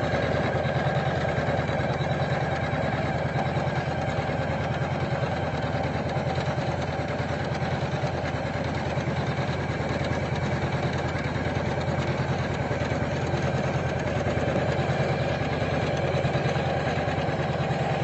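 Computerized embroidery machine stitching steadily. The needle mechanism runs at a fast, even rhythm with a constant motor hum.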